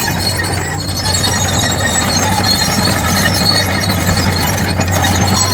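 Engine of heavy construction machinery running steadily, with a constant low hum.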